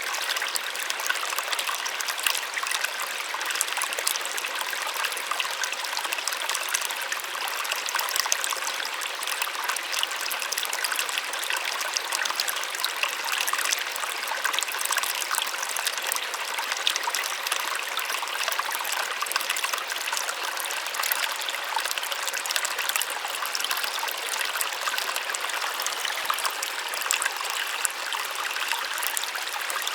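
Small waterfall splashing steadily, a continuous hiss of falling water that sits high, with little low rumble.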